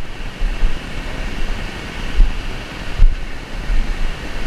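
Wind buffeting the microphone in repeated low gusts over a steady rushing roar of a waterfall.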